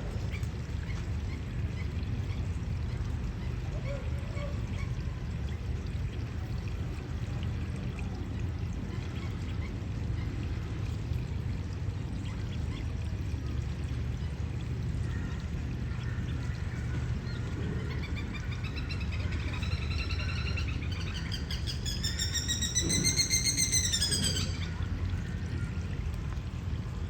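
Masked lapwing giving a rapid chattering call that starts faint past the middle, rises in pitch and grows loud, then cuts off near the end. Steady running water throughout.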